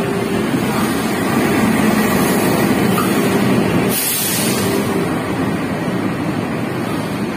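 Arriving diesel-hauled passenger train rolling past: the locomotive and then the coaches' wheels running steadily over the rails. A short hiss of air comes about four seconds in.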